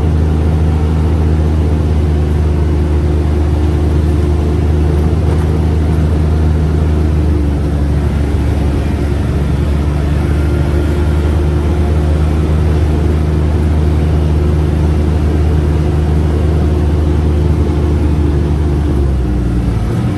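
Engine of a UTV side-by-side running steadily while under way, with its pitch shifting about a third of the way in and again near the end.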